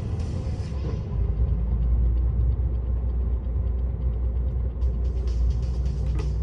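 Truck's diesel engine running with road rumble inside the cab. The higher tyre hiss fades about a second in and comes back near the end with light clicks.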